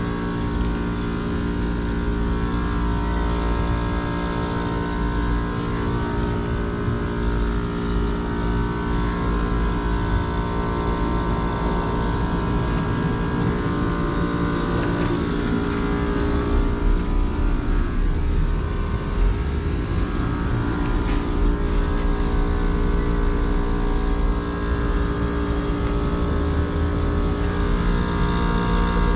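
2009 Carrier base-model heat pump outdoor unit running with a steady mechanical hum made of several fixed tones over a low rumble.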